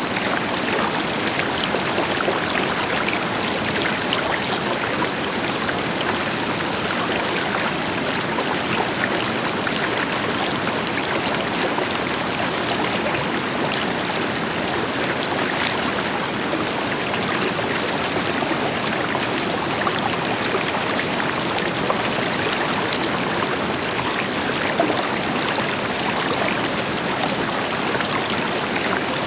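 River water flowing and splashing over rocks in a steady rush, with a deeper waterfall roar blended into the background.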